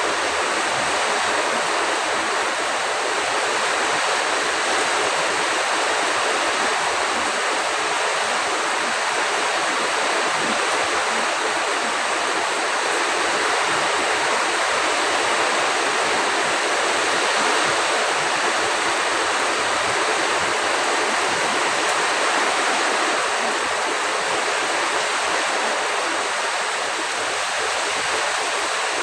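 A strong storm: a loud, steady rush of heavy rain and wind with no let-up.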